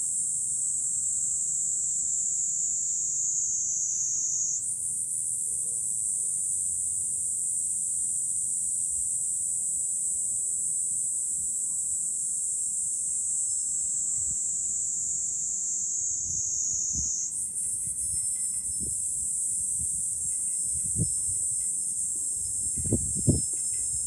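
Cicada chorus: a steady, high-pitched buzzing drone whose pitch jumps up slightly about five seconds in and again about seventeen seconds in, sinking slowly in between. Low thumps of wind buffeting the microphone come in over the last several seconds.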